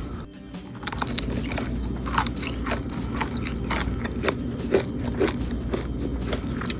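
Close-miked crunching of crispy sugar-glazed fried anchovies being bitten and chewed, about two crunches a second, starting about a second in.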